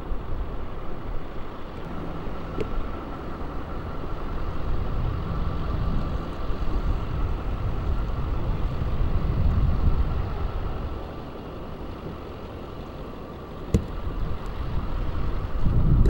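A vehicle engine running steadily with a constant whine, under uneven low rumbling; a single sharp click near the end.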